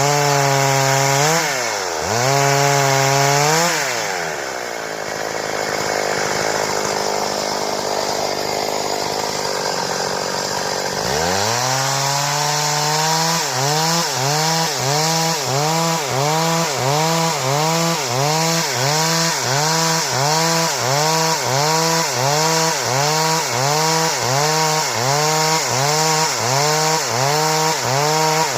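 Stihl chainsaw revving up and down twice, then running steadily for several seconds with a noisy, rasping sound as it works, then rising and falling in engine speed in a quick even rhythm, about three times every two seconds.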